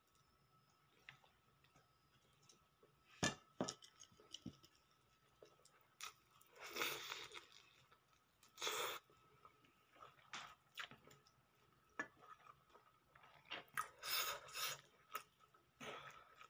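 Close-up eating sounds: chewing and biting into a hot and spicy chicken wing and a mouthful of rice, with small wet mouth clicks and a few louder crunchy, rustling bites spread through.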